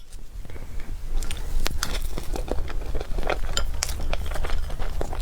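Close-miked eating of cake: an irregular string of sharp wet mouth clicks and chewing, over a steady low hum.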